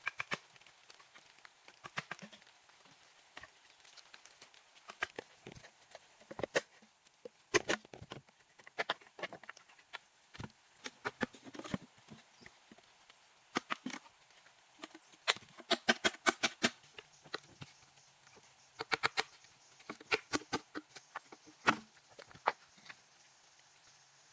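Irregular sharp knocks and clicks, many in quick clusters, over a faint steady hiss.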